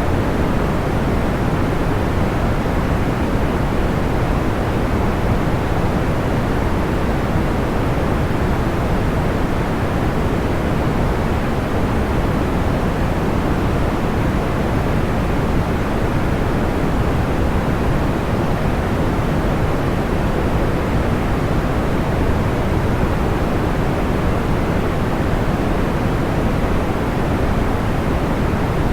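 Steady sleep-aid noise: an even, unbroken rush, deeper and duller than a bright hiss, with no distinct crackles or pops.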